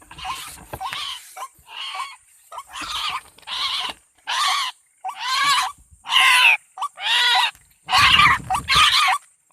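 White-breasted waterhen (ruak-ruak) calling, a harsh croaking call repeated about once a second, roughly eleven times. A low rumble runs under the calls about eight seconds in.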